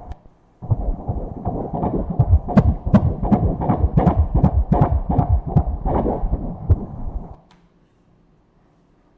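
Fetal heartbeat played through the ultrasound machine's Doppler: fast, even whooshing pulses, about two and a half to three a second, that start just under a second in and cut off near the end.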